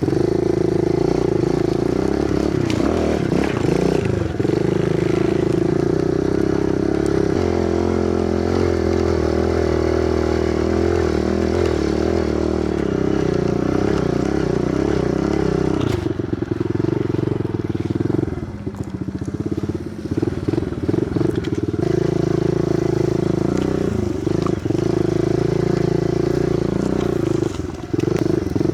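Kawasaki KLX110 pit bike's small single-cylinder four-stroke engine running steadily under way. Its note shifts and breaks up for a few seconds around the middle, then settles back to a steady drone.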